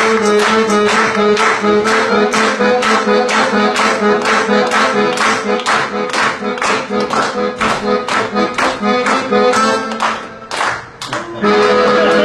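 Accordion playing an instrumental passage of a folk song, with chords pulsing in an even rhythm about three times a second. About ten seconds in it briefly drops away, then comes back in full.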